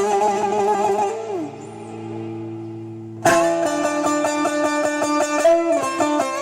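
Instrumental improvisation on a plucked string instrument: quick picked notes over a held low drone, with a sliding note about a second and a half in, softer playing, then a loud strummed attack just past three seconds before the fast picking resumes.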